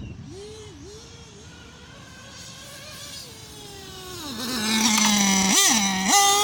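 Nitro RC buggy's .28 two-stroke glow engine running as the buggy is driven, its pitch rising and falling with the throttle. It is faint for the first few seconds, then gets much louder as the buggy comes close, with a quick drop in revs and a rev back up near the end.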